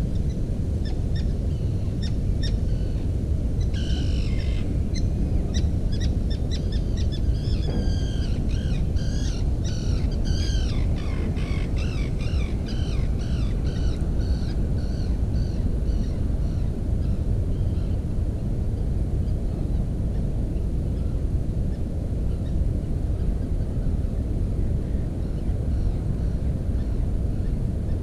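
Small bird chirping: a run of short, high chirps that thickens into a rapid, busy series about a third of the way in, then thins out and stops past the middle. Under it a steady low rumble.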